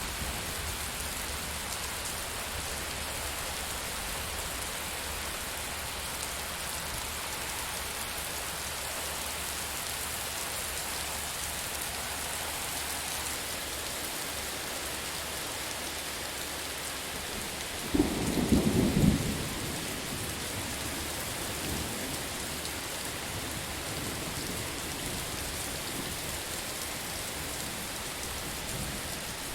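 Steady heavy rain falling, with one sudden crack of thunder about eighteen seconds in, lasting a second or two.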